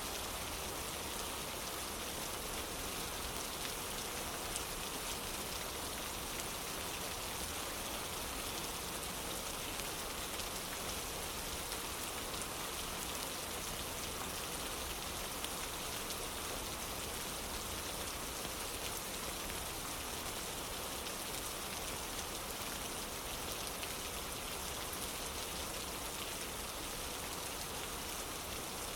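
Steady rain falling on a wooden porch: an even, unbroken hiss of rainfall with fine patter of individual drops.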